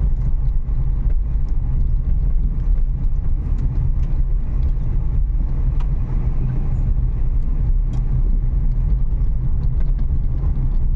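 Steady low rumble of road and engine noise heard from inside a moving Renault Kiger, with a few faint ticks from the cabin.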